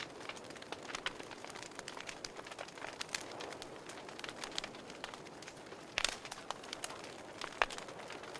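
Wood fire burning in a fireplace: irregular sharp crackles and snaps over a soft steady hiss, with a louder pop about six seconds in and another near the end.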